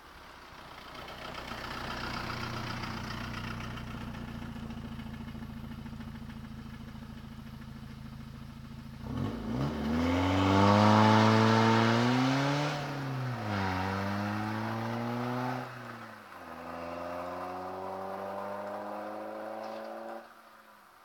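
Peugeot 306 HDi turbodiesel with a straight-through exhaust (catalyst and back box removed) and an induction kit, first running at a steady note, then accelerating hard about nine seconds in. The engine note climbs, drops sharply at two gear changes and climbs again, and the sound falls away suddenly near the end.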